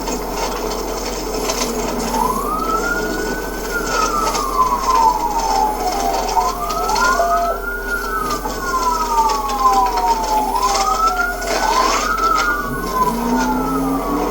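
Police car sirens wailing, two of them out of step, each rising and then falling slowly over several seconds.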